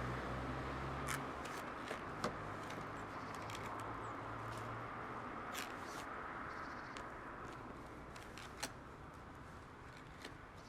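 A vehicle engine's low hum fading away over the first few seconds, leaving a steady background hiss broken by scattered sharp clicks and taps.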